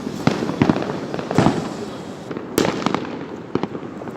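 New Year's fireworks going off: a rapid, irregular string of sharp bangs and pops, with a crackling haze between them and the loudest bang about two and a half seconds in.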